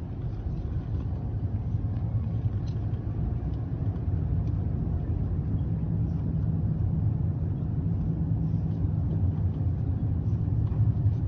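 Motor vehicle running: a steady low rumble of engine and road noise.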